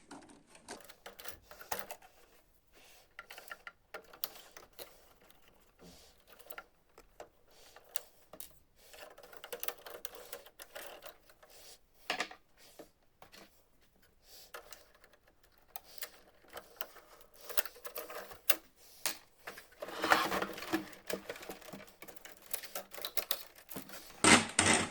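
Irregular plastic clicks, taps and rattles of a laser printer being taken apart by hand, as its ribbon cables are unplugged and the scanner unit is worked loose, with a busier stretch of rattling and scraping about twenty seconds in.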